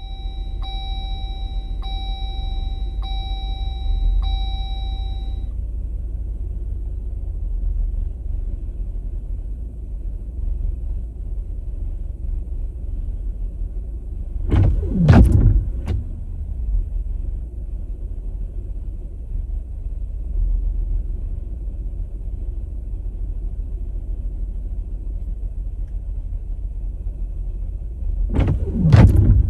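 Jeep Wrangler running with a steady low rumble. For the first five seconds a repeating electronic chime sounds, about one pulse a second. Two loud whooshes come, one around halfway and one near the end.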